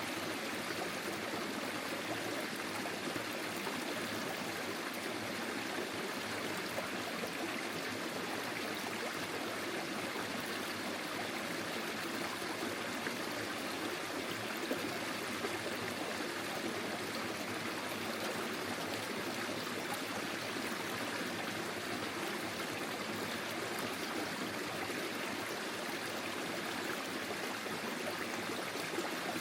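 Forest stream flowing steadily, an even rush and trickle of water over the stream bed.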